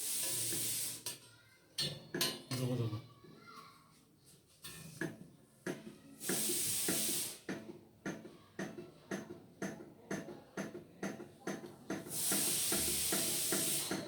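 Flame-heated antique table fan running, its mechanism giving off sharp metallic clicks that settle into a steady rhythm of about two to three a second. Three short bursts of hiss come in at the start, midway and near the end.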